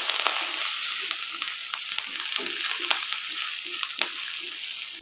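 Peanuts, dal and fresh curry leaves sizzling in hot oil in an iron kadai while a spatula stirs and scrapes them in quick, regular strokes, with a sharp tap of the spatula on the pan about four seconds in.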